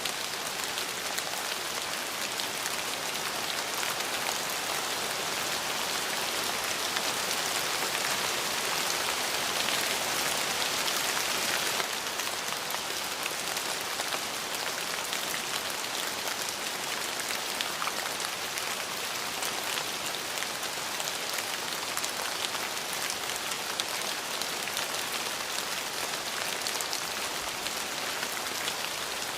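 Steady rain falling, a constant hiss of many drops with fine individual drop ticks, swelling slightly louder for a few seconds a little past the first quarter.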